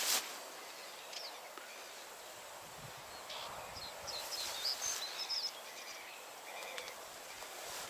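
Small birds chirping in short calls, a few about a second in and a cluster of them between about four and five and a half seconds, over a faint steady outdoor hush.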